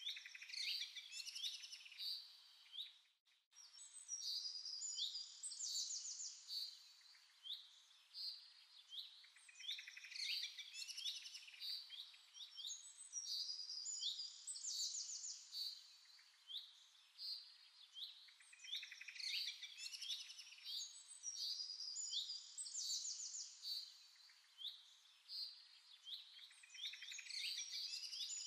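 Birds chirping and trilling in a dense, continuous chorus of quick high notes. The sound cuts out briefly about three seconds in.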